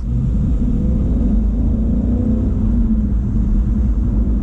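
2017 Mustang GT's 5.0 Coyote V8 running on its stock exhaust while driving, heard from inside the cabin as a low steady rumble. The engine note rises slightly about a second in and eases back down near three seconds.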